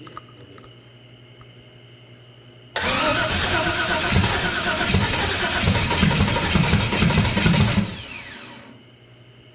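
Turbocharged LS V8 in a Chevy S10 pickup cranked on the starter for about five seconds without catching: a loud chugging crank that starts suddenly, then a whine that falls away as the starter is let go.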